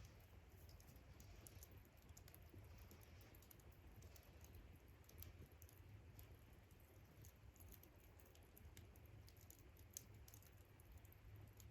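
Wood campfire crackling faintly, with scattered small sharp pops and ticks at an irregular pace over a low steady rumble.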